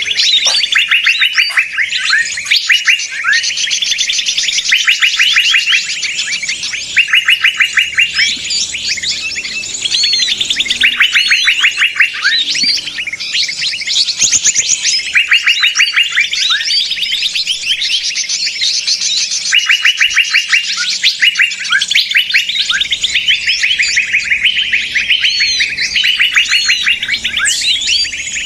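Small songbirds calling in a noisy, agitated racket, an Indonesian 'ribut' lure track used for bird trapping: several birds overlapping in rapid trills of sharp, high chirps, one burst after another.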